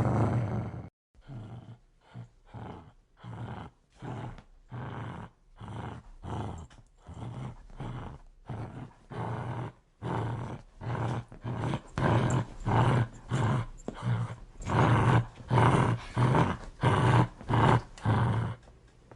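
A dog growling in a series of short, rhythmic pulses, about two a second, getting louder over the second half.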